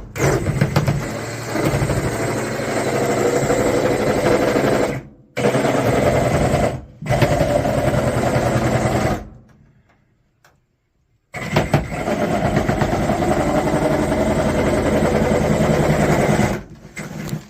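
Power saw, most likely a reciprocating saw, running in long bursts as it cuts through the sheet-metal panels of an old air handler, with a fast, even buzz; it stops briefly twice and pauses for over a second past the middle before cutting again.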